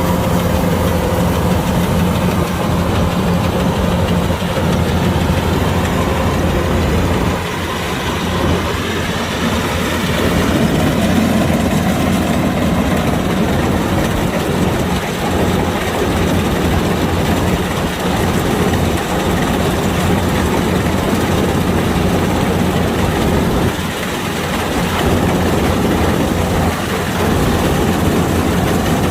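Kubota DC-105X rice combine harvester running steadily, its diesel engine and machinery droning without a break. Two brief slight dips in level come about a quarter of the way in and about four-fifths of the way through.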